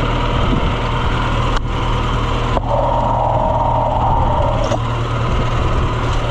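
Farm vehicle engine running steadily at a constant speed, with a higher whine joining for about two seconds midway.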